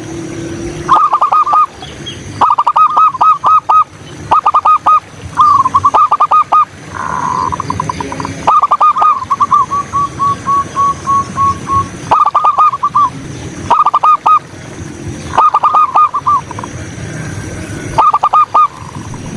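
Zebra dove (perkutut) cooing: repeated bursts of several short staccato coos, with one longer run of quick notes trailing off a little before the middle. A faint steady high tone sits underneath.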